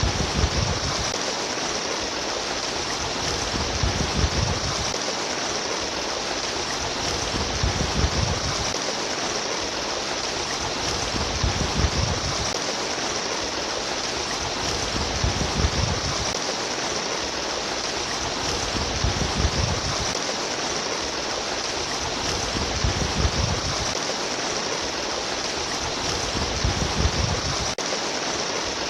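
Steady rushing and splashing of flowing stream water, with a deeper swell coming round about every four seconds in an even rhythm.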